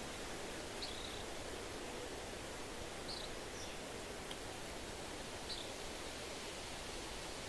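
Steady wind rustling through trees, with a handful of short, high bird chirps scattered through it.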